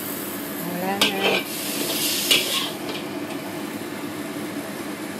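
Cucumber pieces and meat sizzling as they stir-fry in an oiled pan, with a steady frying hiss. A utensil scrapes across the pan twice, about a second in and again past two seconds.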